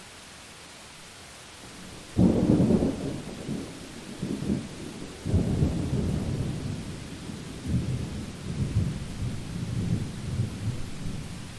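Thunderstorm: a steady hiss of rain, then a sudden loud clap of thunder about two seconds in, a second peal about five seconds in, and uneven rolling rumbles after it.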